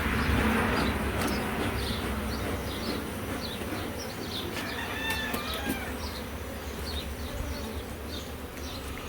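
Honeybees buzzing in a steady drone around an opened hive, with short high bird chirps repeating throughout.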